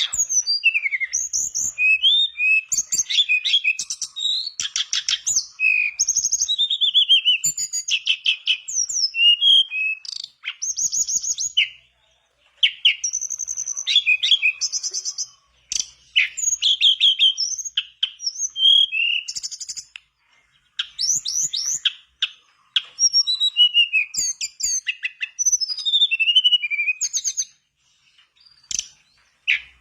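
A tledekan bakau singing in full voice: a fast, varied stream of high whistled notes, rapid trills and rising and falling chirps. There are a few short pauses between phrases.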